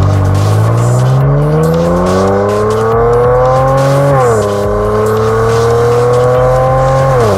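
Kia Stinger 3.3T twin-turbo V6 through a JUN B.L aftermarket performance exhaust, accelerating under load. The note rises steadily, drops sharply at an upshift about four seconds in, then climbs again to a second upshift near the end.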